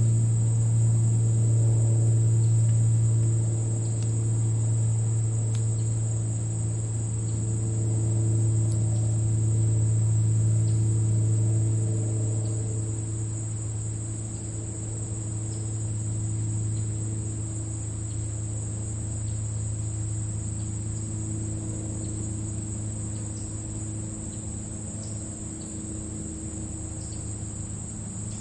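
Crickets chirping steadily in grass, a continuous high trill, over a low steady hum that slowly fades over the second half.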